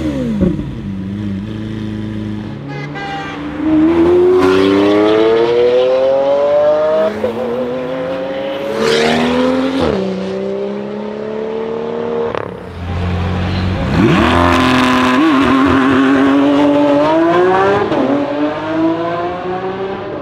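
Lamborghini Aventador's V12 engine accelerating hard through the gears: the pitch climbs, drops sharply at each upshift, then climbs again, several times over. Near the start the engine pitch falls away before the first pull.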